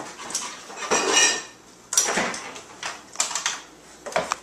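Bottles and containers clinking and rattling in a refrigerator as a dog opens it and pulls out a drink: a few separate clinks and knocks, some briefly ringing.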